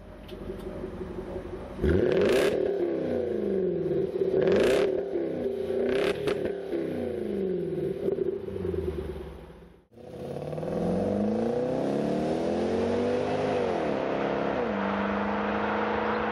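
Jaguar XK V8 through a stainless steel valve-controlled exhaust, revved in a series of quick blips from idle with a few sharp cracks among them. After a brief cut, one longer rev rises, is held, then drops back to a steady idle.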